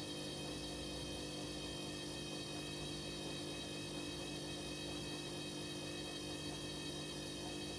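Hoover H-Wash 300 washing machine running mid-cycle with a steady, unchanging electrical hum of several tones, high and low, and no knocks or breaks.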